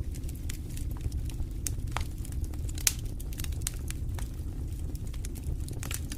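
Wood fire in a fireplace crackling: irregular sharp pops and snaps over a steady low rumble of the flames, with one louder pop about halfway through.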